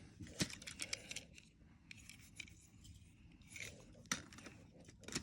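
Die-cast toy cars being handled: faint clicks, taps and light scrapes of small metal and plastic parts, a quick cluster in the first second or so and a few more near the end.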